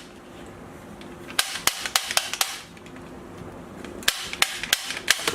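Sharp plastic clicks from handling a toy sniper rifle, coming in two quick runs of several clicks each, one about a second and a half in and another near the end.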